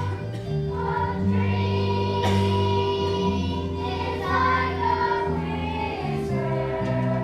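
Children's choir singing a song with instrumental accompaniment and a steady bass line.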